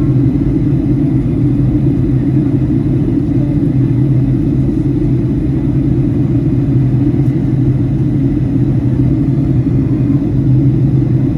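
Steady low drone of an airliner in flight heard from inside the passenger cabin: jet engine and airflow noise, unchanging throughout.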